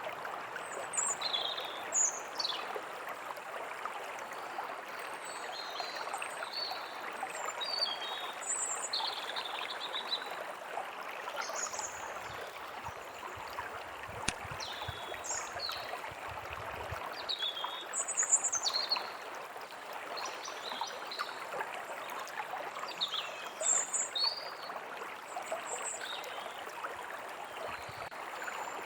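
A forest stream running steadily, with small birds chirping and calling now and then above it in short, quick notes.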